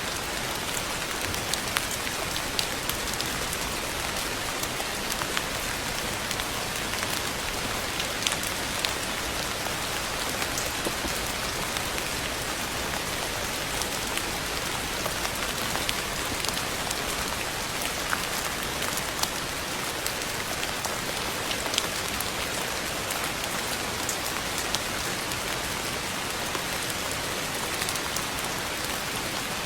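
Steady rain falling, an even hiss with many distinct drop taps scattered through it.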